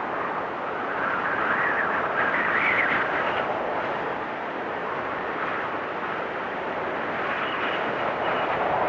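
Blizzard wind blowing steadily, with a whistling gust that rises in pitch and swells about two seconds in and a thinner whistle near the end.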